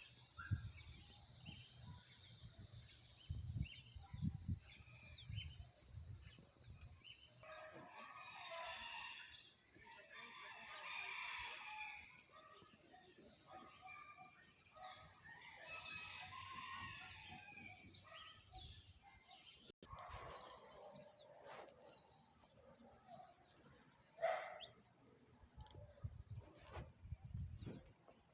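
A chorus of birds chirping, with many short, quickly falling high chirps repeating throughout and fuller, lower calls coming in for a few seconds at a time. There is a low rumbling near the start and again near the end.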